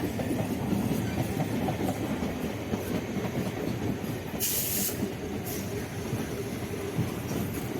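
Suburban electric local train running, heard from on board: a steady rumble of wheels on the track, with a short burst of hiss a little past halfway.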